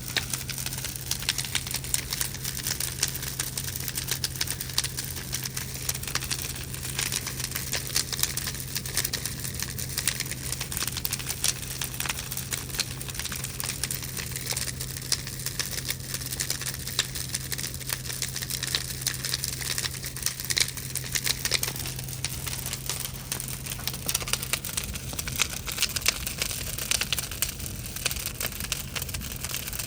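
Big bonfire burning, with dense, irregular crackling and popping throughout. A steady low hum underneath stops about 24 seconds in.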